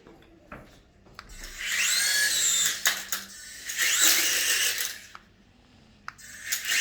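Remote-control toy helicopter's small electric motor and rotor whining in three bursts of about a second each, the pitch rising and falling as the throttle changes, with a few light clicks between.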